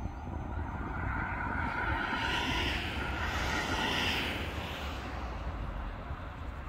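Appenzellerbahnen narrow-gauge electric train, a Walzer set with an added module car, running along the track as it draws away; its hissing wheel-and-rail running noise swells from about a second in, peaks midway and then fades, over a steady low rumble.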